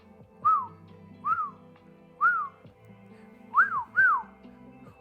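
Soft background music with a series of five short whistled notes, each rising then falling in pitch, the last two quicker, higher and louder.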